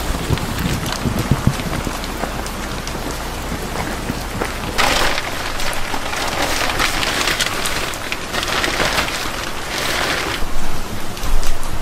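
Steady rain falling, with several loud rustling swishes of a thin plastic rain poncho being pulled off from about five to ten seconds in, and a couple of knocks near the end.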